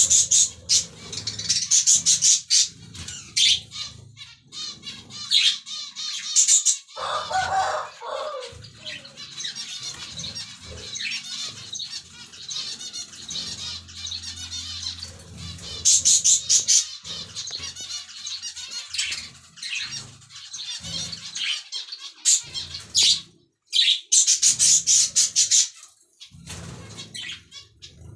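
Pet finches and lovebirds chirping and twittering busily in high, rapid calls, with wing flutters, and one lower, harsher call about seven seconds in.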